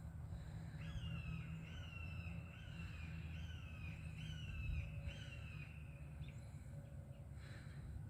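A bird singing a run of about eight repeated notes, each a short whistle falling slightly in pitch, starting about a second in and stopping about six seconds in. A faint, steady low rumble runs underneath.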